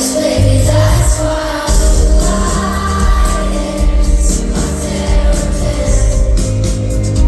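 Live pop song heard from the audience: a band with heavy bass under a lead singer, with the crowd singing along.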